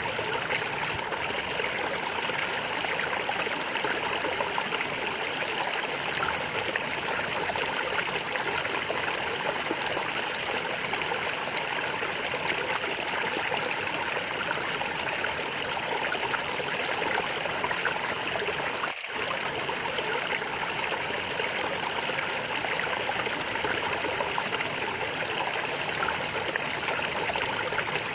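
Flowing water gurgling and trickling steadily, with one brief dip in level about two-thirds of the way through.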